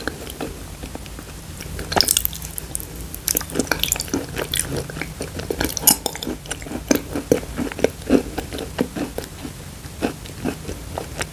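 Wet, sticky mouth sounds of someone chewing and eating thick clay paste: a run of irregular smacks and clicks, with a spoon scooping and scraping the paste in a glass bowl.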